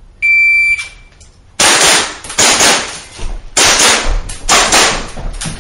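An electronic shot timer gives one short high beep to start the stage, then about a second later a pistol fires a fast string of about ten shots, in pairs and short runs with brief pauses between.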